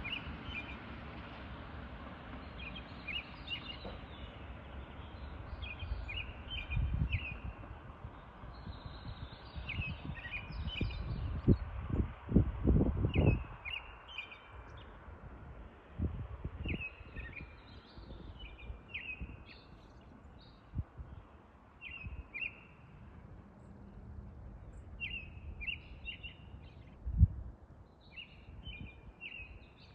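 Songbirds chirping, short high calls repeated in quick clusters throughout. Several irregular low rumbles come and go underneath, the loudest a little before halfway and a sharp one near the end.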